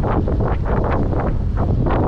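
Strong wind buffeting a bike-mounted GoPro Hero 8's microphone while riding: a loud, continuous low rumble with irregular gusty flares of higher hiss.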